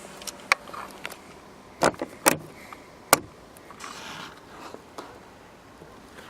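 A handful of sharp clicks and knocks from the interior fittings of a 2000 Volkswagen Bora being handled, the loudest about three seconds in.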